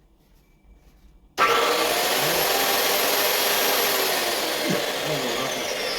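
Angle grinder with no disc fitted switched on about a second and a half in and running at full speed, a steady whir with a high whine that drifts lower near the end: a test run after repair of its broken gear housing and gear.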